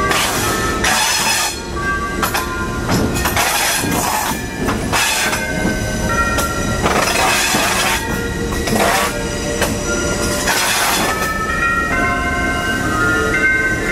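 Passenger train rolling along a curving track, with steady running noise and short high squeals from the wheels that come and go.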